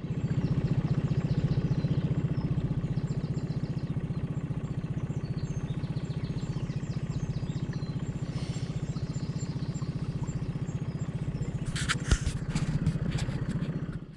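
Small boat's outboard motor running steadily with an even, rapid pulse, with a few sharp clattering knocks about twelve seconds in.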